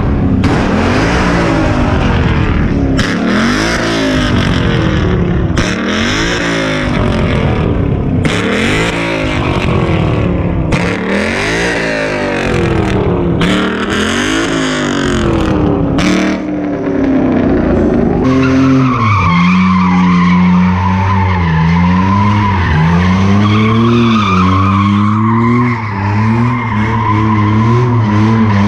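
A drifting car's engine revving up and down again and again while its tyres squeal and skid. About two-thirds of the way through, the tyre noise drops away and the engine note carries on rising and falling.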